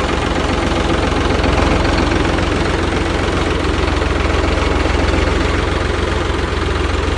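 Farmtrac 45 tractor's three-cylinder diesel engine idling steadily.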